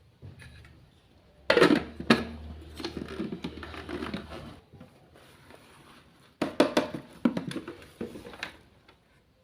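Small kitchen items being handled: two bursts of sharp clicks, knocks and clatter, the first about a second and a half in, the second about six and a half seconds in.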